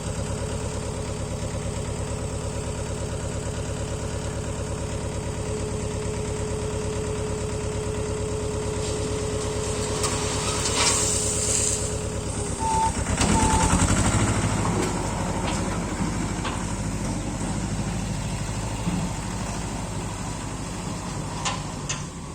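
Mahindra Jivo 245 DI mini tractor's diesel engine running with an even pulse and a steady whine. About halfway through the whine stops and the engine note turns louder and rougher. A short hiss comes just before the change, and a couple of sharp clicks come near the end.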